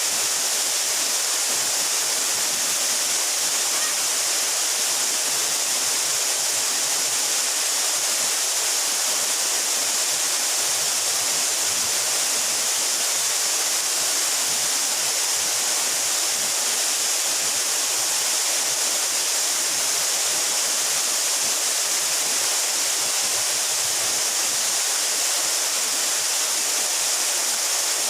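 A mountain waterfall, about 12 metres high, pouring in a steady, unbroken rush of falling water with most of its energy in a bright hiss.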